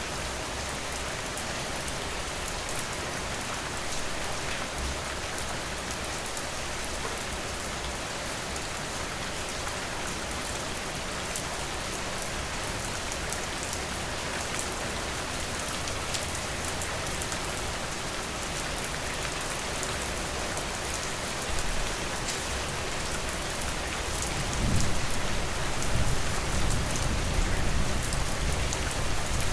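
Steady rain falling on a surface, with scattered drops ticking through the hiss. Near the end a deep, low rumble swells up under the rain and stays loud.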